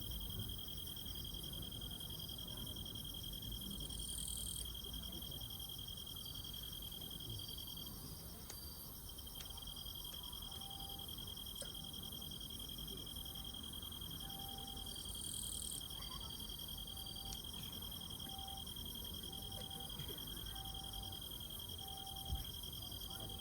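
Crickets chirring steadily in several high-pitched trills, with a lower chirp coming and going in short pulses. A single dull thump near the end.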